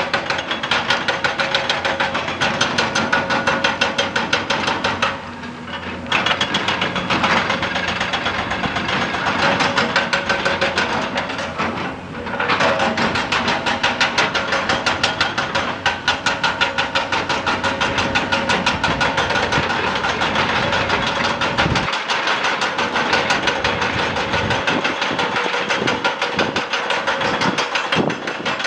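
Excavator-mounted hydraulic rock breaker hammering rock in rapid, even blows over the running excavator engine. The hammering breaks off briefly about five seconds in and again about twelve seconds in.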